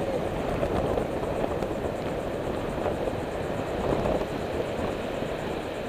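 Steady rumbling wind noise buffeting the microphone.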